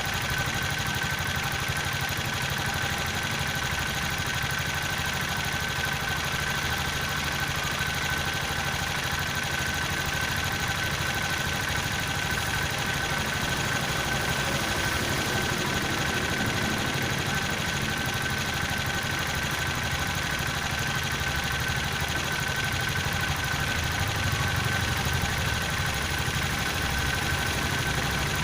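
Freshly rebuilt Viar engine idling steadily, running after its block has been refitted.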